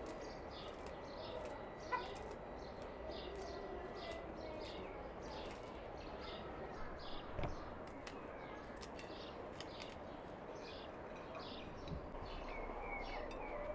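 Small birds chirping steadily, short high chirps a few times a second, with a few light clicks of glassware and a plate being handled.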